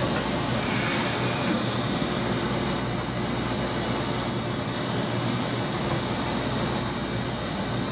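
Steady roar of running laundromat machinery with a constant low hum under it, and a brief rustle about a second in.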